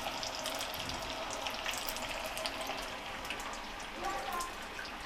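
Chapli kababs deep-frying in hot oil in a pan: a steady sizzle with dense, fine crackling.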